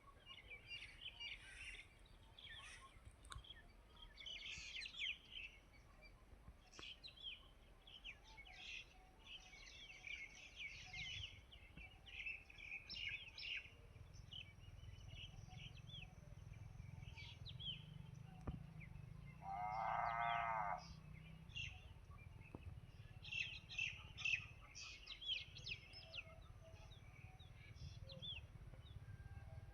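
Small birds chirping and calling on and off throughout, over a low steady rumble that sets in about halfway through. About two-thirds of the way in comes one drawn-out pitched call lasting about a second and a half.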